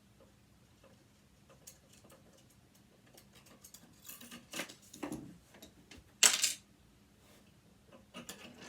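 Light metal clicks and handling noise from a sewing machine's parts being worked apart by hand, with a louder, sharp metallic rattle about six seconds in.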